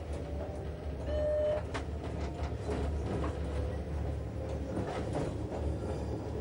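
Metre-gauge electric train running: a steady low rumble with a slowly rising motor whine as it gathers speed, and the wheels clicking over rail joints. A brief, louder, higher-pitched tone sounds about a second in.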